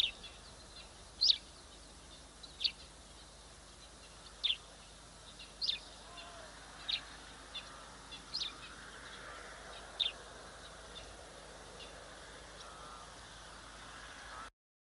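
A bird calling with short, sharp, high chirps, each slightly falling, repeated irregularly about every one to two seconds and stopping after about ten seconds, over faint steady outdoor background noise.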